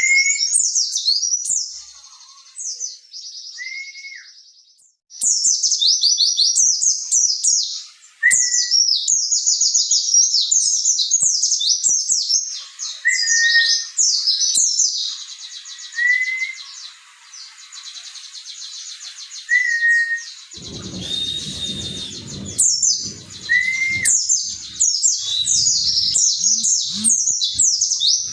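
White-eye (pleci) singing a fast, high twittering song in long runs, broken by brief pauses. Short lower whistled notes come in every few seconds. A low rumbling noise joins in for a few seconds past the middle and again near the end.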